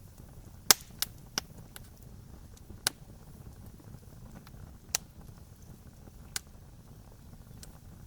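Campfire crackling: sharp pops from the burning wood every second or two, the loudest less than a second in, over a low steady rumble.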